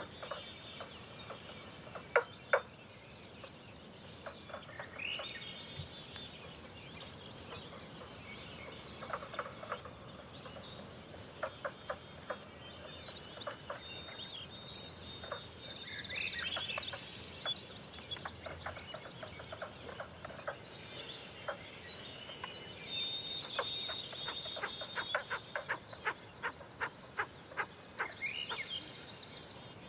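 Several birds singing and calling at once, with scattered sharp clicking notes and short quick runs of clicks; the two loudest clicks come about two seconds in.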